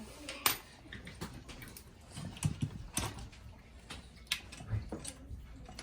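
Scattered clicks and knocks with a few dull thumps: parts and tools being handled during assembly of a 3D printer kit.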